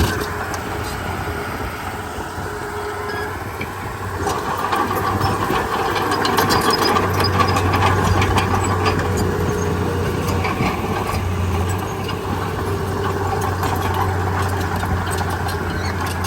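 Bulldozer's diesel engine running steadily. It works harder from about four seconds in, with a rattling metallic clatter, then eases slightly near the end.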